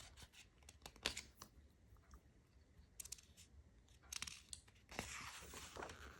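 Faint rustles and a few soft clicks of a picture book's paper pages being handled and turned, in near silence.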